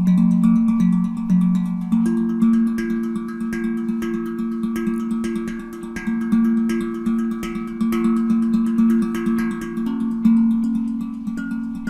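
Handpan tuned to F Phrygian, struck by hand in a steady rhythmic pattern of a few notes a second, each note ringing on over a sustained low tone; about two seconds in a higher note enters and keeps ringing.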